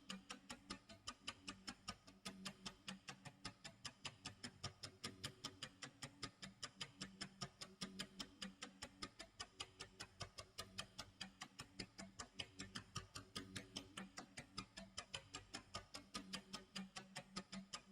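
Clock tick-tock sound effect: faint, even ticks at about four a second, with a low steady drone underneath that comes and goes.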